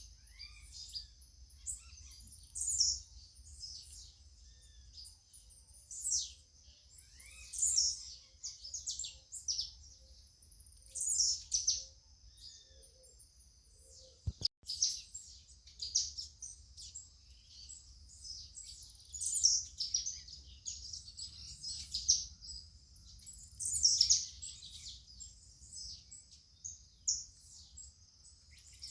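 Songbirds singing, with short high-pitched chirping phrases repeating every couple of seconds over a steady high background note. There is a brief click about halfway through.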